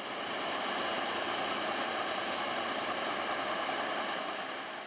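Steady hiss of water spraying from a hose onto pavement, easing off near the end.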